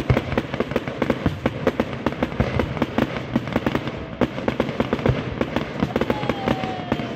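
Fireworks display: aerial shells bursting in a dense, rapid run of bangs and crackles, opening with a loud bang.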